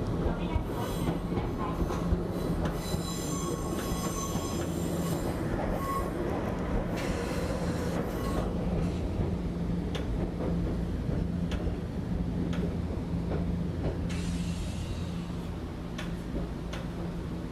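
Inside a Nankai 2230-series train running slowly over points into a station. The wheels squeal on the curve for a couple of seconds early in the passage, and sharp clicks of the wheels over the rail joints and switches come through over a steady low running hum as the train slows toward a stop.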